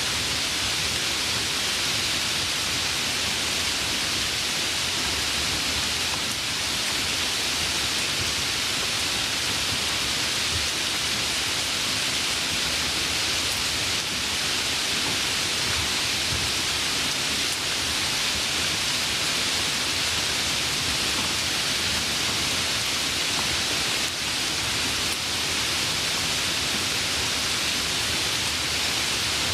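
Steady, heavy rain falling as a continuous even hiss, with no single drops or thunder standing out.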